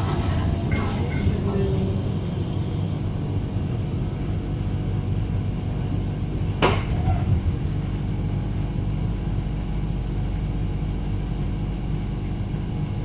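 Cabin noise of a Flexity tram under way: a steady low rumble, with a single sharp knock a little over halfway through.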